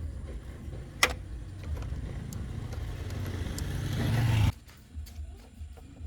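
A sharp click, then an engine or motor sound that grows steadily louder for about three and a half seconds and cuts off suddenly.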